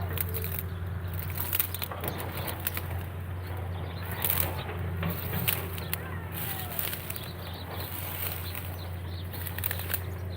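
Birds at a pond: a few faint calls and scattered sharp clicks and rustles over a steady low hum.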